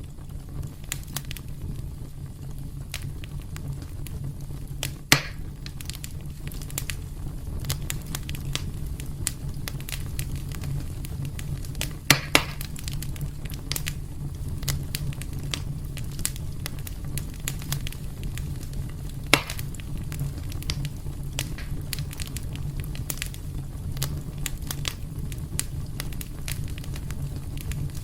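Wood fire burning in a fireplace: a steady low rumble of flames under frequent small crackles, with three louder pops spread through.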